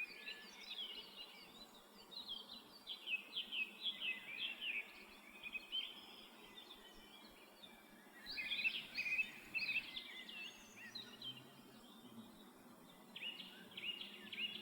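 Small songbirds chirping and singing in quick runs of short high notes, with brief lulls, over a faint steady background hiss.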